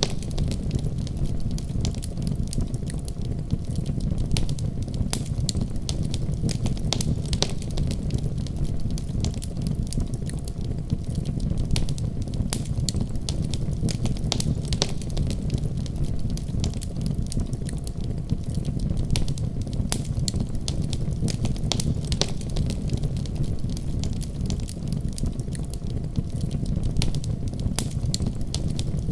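Wood fire burning in a fireplace: steady, irregular crackling and small pops over a constant low rumble of flames.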